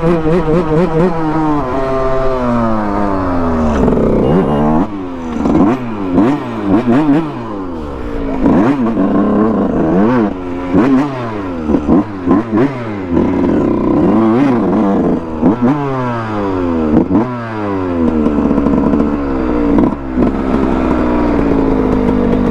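Several dirt bike engines revving at once, their pitch climbing and falling again and again, with short sharp throttle blips.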